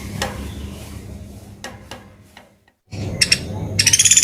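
Pelatuk beras woodpecker giving a loud, rapid trilling call that starts near the end, after a few faint clicks.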